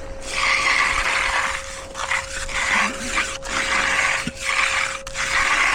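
Steel hand trowel scraping over fresh concrete in repeated strokes, each lasting up to about a second and a half with short pauses between them.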